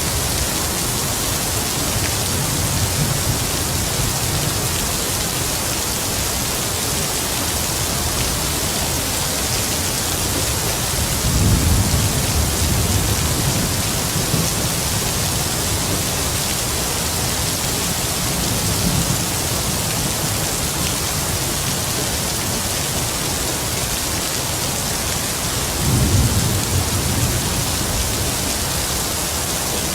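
Heavy rain falling steadily with a constant hiss, while distant thunder rumbles low several times, most strongly about eleven seconds in and again near the end.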